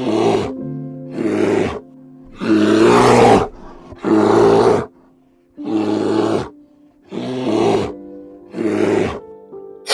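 A big cat giving a series of rough, rasping roars, about seven in a row, each under a second long with short gaps between.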